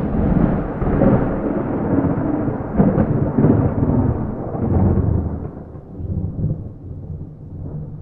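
Thunder with no rain: a clap that starts suddenly and rolls on in a long, low rumble, with a sharper crack about three seconds in, then slowly fades over the last few seconds.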